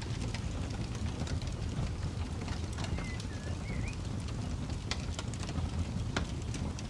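Wood campfire crackling, with irregular sharp pops and snaps over a low steady rumble. A short two-note chirp, like a bird's, sounds about three seconds in.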